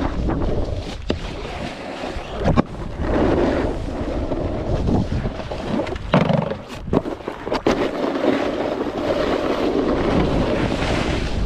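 Snowboard riding: the board's base and edges scraping over packed snow, with wind buffeting the microphone, broken by several sharp clacks from about a second in and a cluster about six to seven and a half seconds in.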